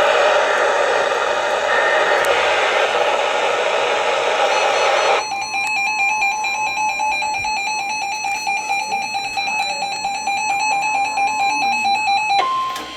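A steady hiss gives way to an electronic alarm beeping in rapid, even pulses, the alert of a weather radio receiver. Near the end a steady single tone starts, the NOAA Weather Radio 1050 Hz warning alarm tone that comes before a new warning is read.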